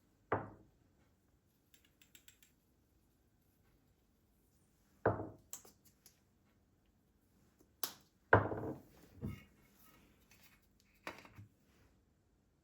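Four dull knocks of household objects being handled and set down on a hard surface, each with a short ring, the loudest about two-thirds through and preceded by a sharp click, with a few faint light ticks in between.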